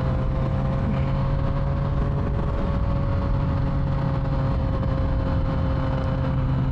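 Motorcycle engine running at a steady cruise with a constant low hum, and wind rushing over the microphone.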